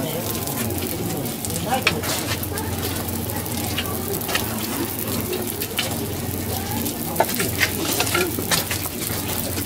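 Shredded cabbage, eggs and batter of okonomiyaki sizzling steadily on a hot flat iron griddle, with scattered sharp crackles and pops from the frying.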